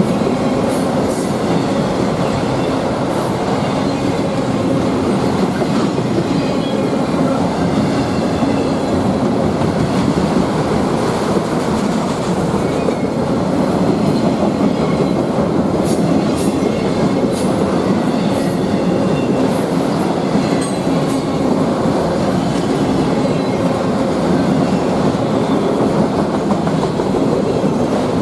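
Freight train cars rolling steadily past close by: a continuous rumble and rattle of steel wheels on rail, with faint high wheel squeal now and then.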